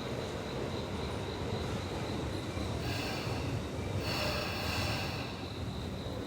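Tobu 10030-series electric train rumbling along the rails at the platform. Higher steady tones join in about three seconds in and fade near the end.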